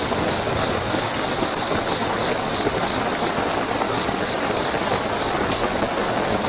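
Steady heavy rainfall, an even hiss of water, with a continuous high-pitched chirping of night crickets running under it.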